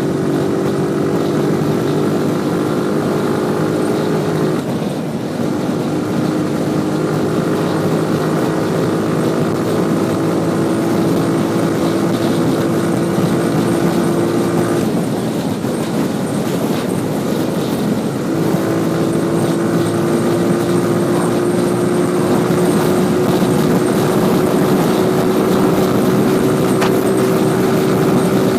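Motorcycle engine running under way, its pitch climbing slowly, dropping about four and a half seconds in, easing off for a few seconds past the middle and then climbing again, over a steady rush of wind noise.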